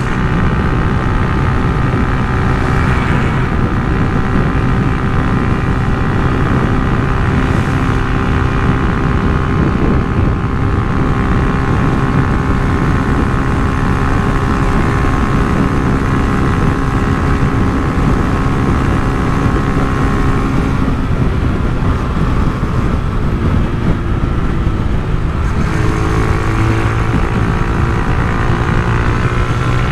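Honda CG Titan 150's single-cylinder four-stroke engine running through an aftermarket Turuna exhaust, a steady loud note whose pitch shifts about twenty seconds in and settles again a few seconds later.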